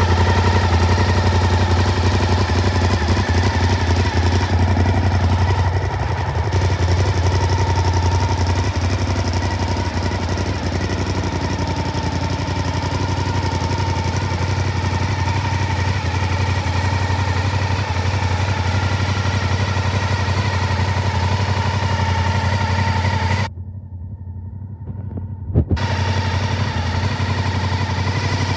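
Honda VTR1000SP-1's 90-degree V-twin idling steadily through an aftermarket Akrapovič exhaust. Near the end the sound goes muffled and quieter for about two seconds, then returns with a sharp click.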